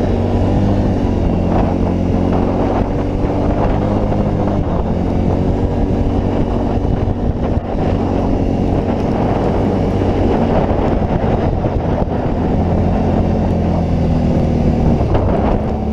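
Can-Am Outlander 650 ATV's V-twin engine running steadily while riding, its pitch rising and falling a little with the throttle, with some wind noise on the microphone.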